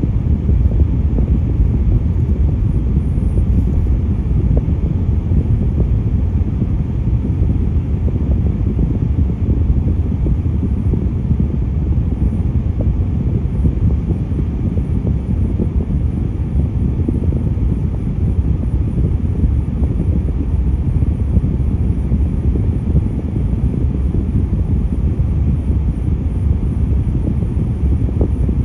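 Steady low rumble of road traffic, heavy vehicles' engines and tyres blending into one continuous drone.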